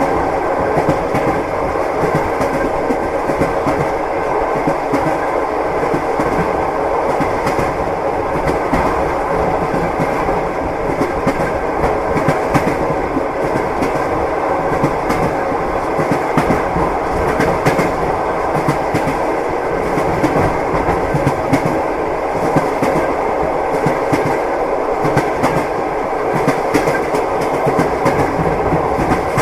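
Train wheels clacking over the rail joints, a steady rumble with a continual clickety-clack.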